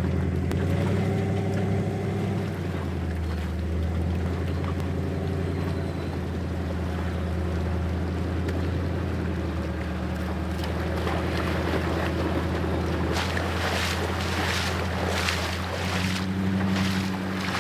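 Truck engines running steadily under load during a static rope pull of a truck stuck in river mud. About three-quarters of the way through, a loud, pulsing splashing begins as the tyres churn through water and mud.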